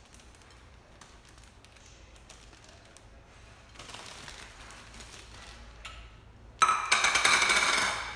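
Plastic bag rustling and crinkling as hot buffalo wing pretzels are bagged for crushing, soft at first, then a loud burst of crinkling near the end that lasts over a second.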